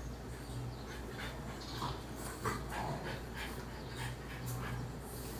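A pet dog panting, quick breaths repeating about three times a second.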